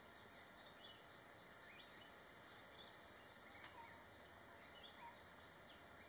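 Faint background hiss with scattered short, high bird chirps. The clearest chirp, a quick falling call, comes a little past halfway.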